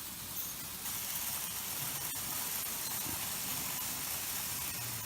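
Märklin model trains running on the layout's track: a steady mechanical hiss with a few faint clicks, louder from about a second in.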